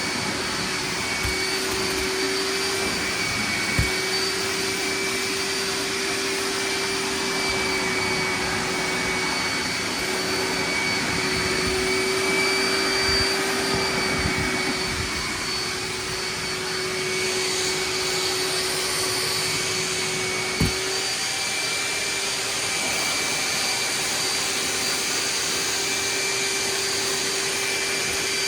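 Hoover wet/dry vac motor running steadily with a high whine, sucking water out of a soaked rug through its wet tank. Two brief knocks stand out over it, about four seconds in and about two-thirds of the way through.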